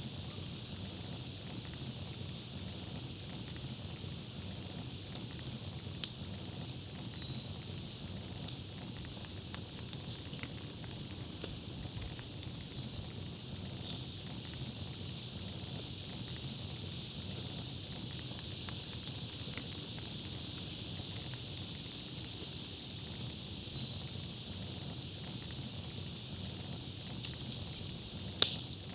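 Campfire crackling steadily, with scattered small pops and one sharp, loud pop near the end, over a low rush of burning wood. A few faint, short high chirps come now and then.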